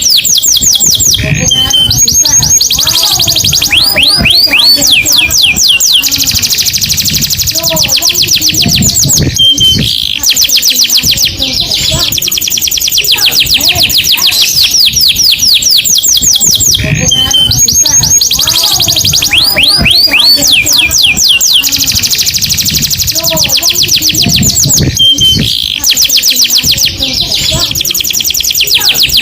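Canary singing: long, rapid, high-pitched trills of repeated notes. The same song phrase comes round about every eight seconds, as in a looped recording.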